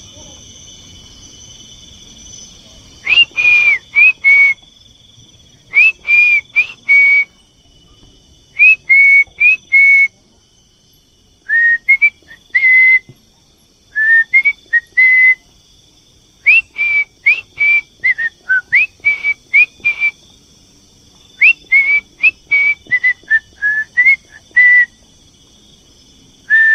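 A person whistling loud short phrases of two to four notes, each note sliding up into a held pitch, with pauses of a second or two between phrases.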